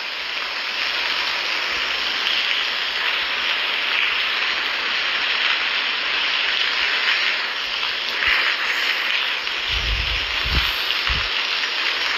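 Heavy rain falling steadily, with a few low thuds about ten seconds in.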